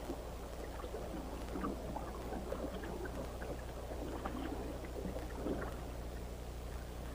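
Water sloshing and splashing in irregular bursts, over a steady low hum.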